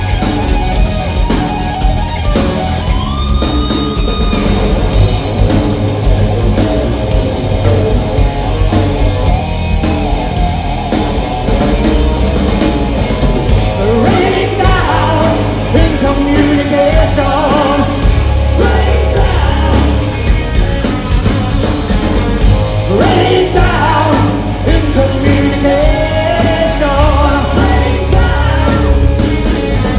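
Hard rock band playing live, with loud guitar and a heavy low end; singing comes in about halfway through.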